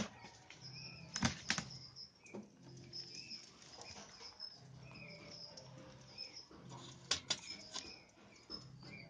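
White-rumped shamas making short, repeated chirps, with quick wing flutters about a second in and again about seven seconds in.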